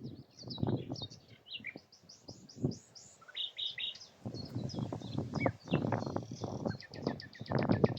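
Common nightingale singing: phrases of fast, high repeated notes and trills. Loud low rustling noise comes and goes under the song.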